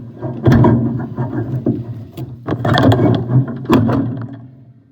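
Metal furnace parts knocking and clattering as the cleaned gas orifice and burner parts are fitted back into a Coleman mobile home furnace, with several sharp knocks over a steady low hum.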